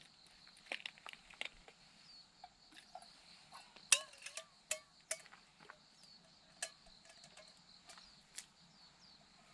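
Wood campfire crackling with sharp, irregular pops, the loudest about four seconds in, over faint insects chirping.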